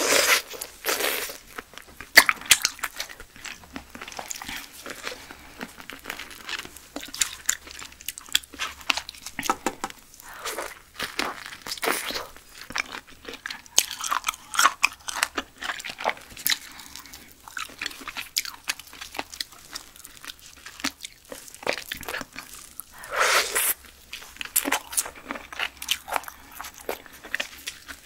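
Close-miked chewing of giant silkworm pupae: the skins pop and crunch between the teeth in an irregular run of sharp clicks and wet mouth sounds.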